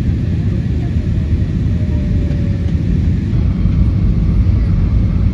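Steady low cabin rumble of an Airbus A320 in flight: engine and airflow noise heard from a passenger seat.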